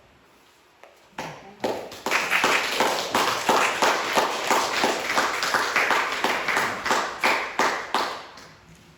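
A small congregation clapping in applause, starting about a second in with a few claps, swelling to full applause, and dying away near the end.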